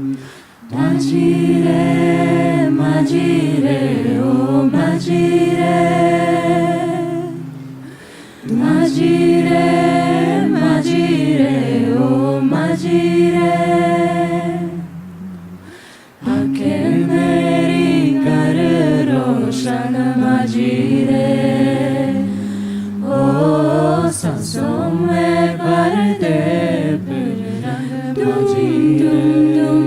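A cappella vocal group singing a Hindi-language song, with layered sustained chords over a low held bass line. The singing comes in long phrases, with brief dips between them about 8 and 16 seconds in.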